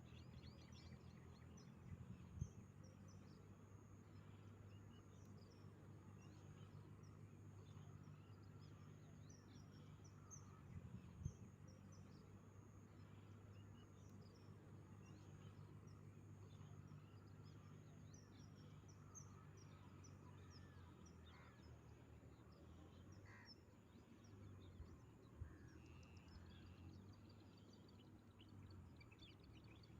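Faint chorus of many small birds chirping, short high chirps throughout, over a low steady hum, with a few soft thumps.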